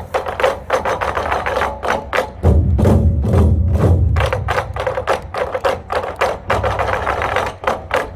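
Group of Korean buk drums beaten in a fast, driving rhythm over music. A deep bass layer comes in about two and a half seconds in and drops out about six and a half seconds in.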